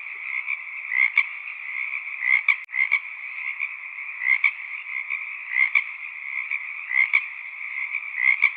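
A chorus of frogs calling steadily, with one louder short croak repeating about once a second above the chorus.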